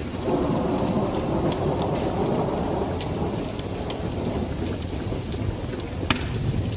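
Wood fire burning in a fireplace: a steady low rushing rumble with scattered sharp crackles and pops, one loud pop about six seconds in.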